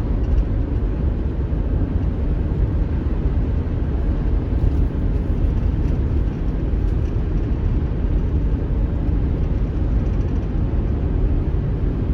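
Steady low rumble of tyre and engine noise from a moving car, heard from inside the vehicle.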